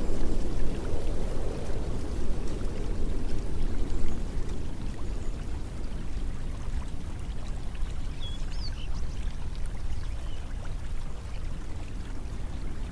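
Flowing water, a steady rushing sound with most of its weight low down, with a few short high bird chirps about eight seconds in.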